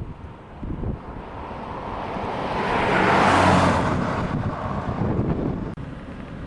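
A vehicle passing by, its road noise swelling to a peak about halfway through and fading away, with a low engine hum at its loudest. Wind buffets the microphone throughout.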